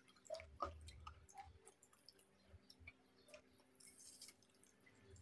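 Faint chewing and scattered small mouth clicks from eating fried chicken by hand.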